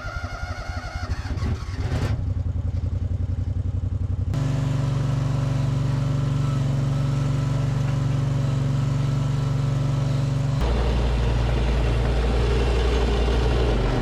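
Cat 307SSR mini excavator's engine running under load while packing gravel. Its steady note steps up about four seconds in and turns lower and rougher near the end.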